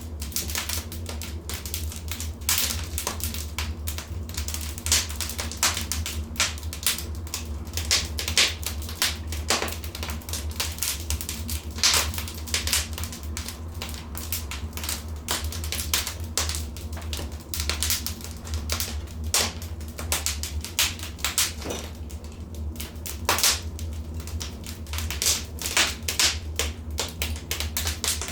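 Wood fire in a fireplace crackling, with dense irregular crackles and occasional louder pops over a steady low rumble.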